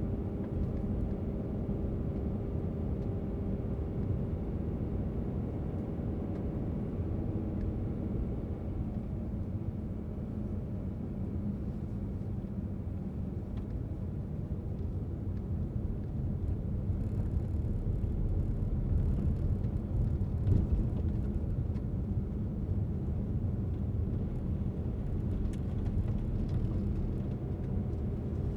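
Car driving on a mountain road: a steady low rumble of engine and tyres, with a hum of engine tones in the first few seconds that fades out, getting a little louder for a few seconds in the middle.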